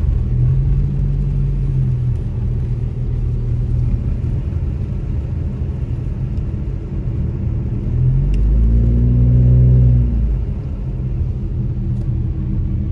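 Car engine and road rumble heard from inside the car while driving, a steady low drone. About eight seconds in the engine note swells and briefly rises and falls in pitch, then settles back.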